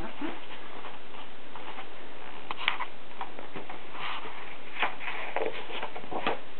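Faint, scattered rustles and light taps of a picture book's pages being handled and searched through, over a steady background hiss.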